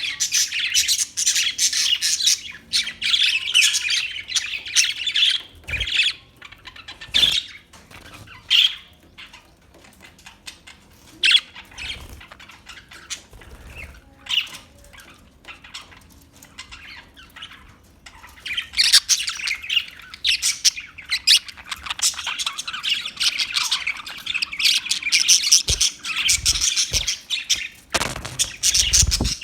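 A flock of budgerigars chattering, chirping and squawking: a dense run of chatter at first, then scattered single calls, then dense chatter again from about the middle on. A few low thumps come near the end.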